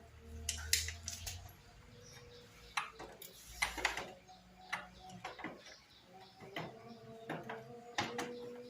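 Metal hand tools clinking and knocking against a motorcycle exhaust and its fittings: irregular sharp clicks and taps, a few a second.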